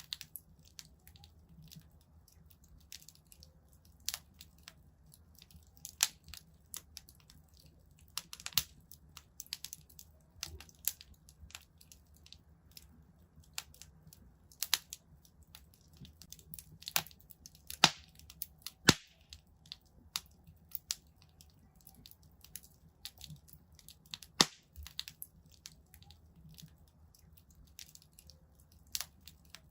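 Wood fire in a fireplace crackling, with irregular sharp pops and snaps and a few louder cracks around the middle, over a faint low rumble.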